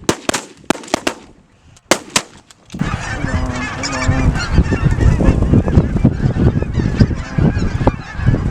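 A few sharp shotgun shots in the first couple of seconds, then from about three seconds in a large flock of geese honking loudly and continuously, many birds calling over one another.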